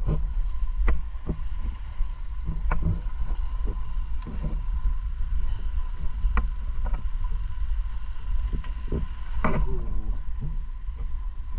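Wind rumbling on the microphone, with scattered sharp knocks and clicks about once a second and a faint steady high tone underneath.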